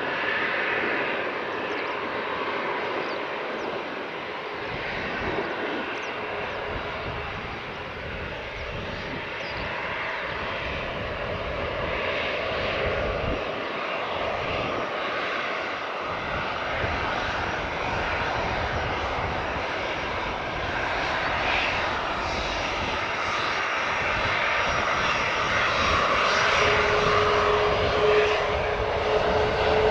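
Airliner engines running steadily, growing louder toward the end as a steady whine comes in.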